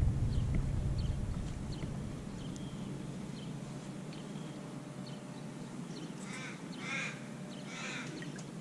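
Birds calling: faint short chirps throughout, then three harsh calls about six to eight seconds in. A low rumble fades away over the first second or two.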